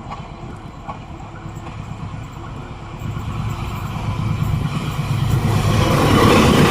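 A train approaching, its low rumble and wheel noise growing steadily louder toward the end.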